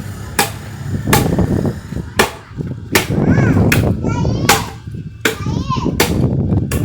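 Repeated hard strikes on wood, a sharp crack roughly every three-quarters of a second, with voices calling in between.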